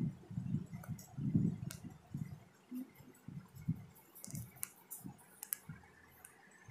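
A person chewing a mouthful of chicken pulao, eaten by hand: irregular soft chewing thumps, busiest in the first two seconds, with a few sharp little mouth clicks and smacks in the second half.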